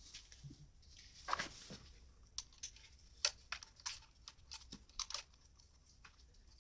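Irregular light clicks and taps of hand work at the engine: the steel high-pressure injector fuel lines being handled and their fittings started on the injectors of a BMW M57 diesel.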